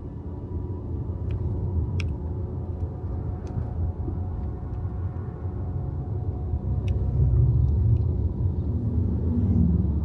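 Low road and tyre rumble of a Tesla Model Y driving, with no engine note, growing louder about seven seconds in. A few faint clicks are heard over it.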